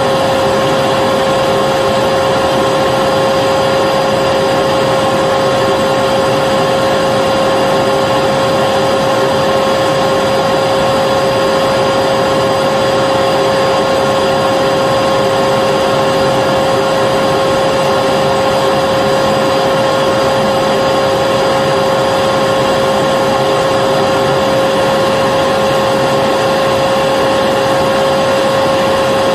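Vacuum cleaner motor running steadily, a constant whine over a rush of air, with no change in pitch or level.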